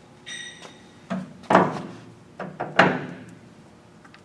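Metal clunks from an engine lathe's headstock as its speed-change levers are shifted to a new spindle speed: a brief high squeak, then two heavy clunks each with a lighter knock just before.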